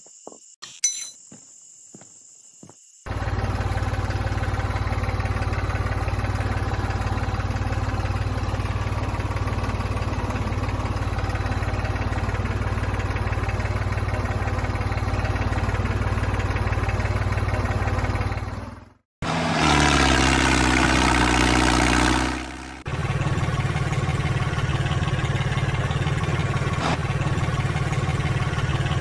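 A few faint clicks, then about three seconds in an engine starts running steadily with a deep hum. About 19 seconds in it cuts out, a different engine sound runs for about four seconds, and then a steady engine sound returns.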